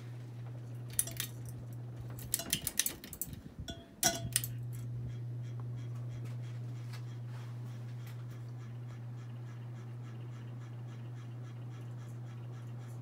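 Harbor Breeze Armitage ceiling fan's motor humming steadily. The hum is broken by a cluster of sharp clicks and rattles from about one to four seconds in, during which it briefly drops out. It then resumes, slightly louder.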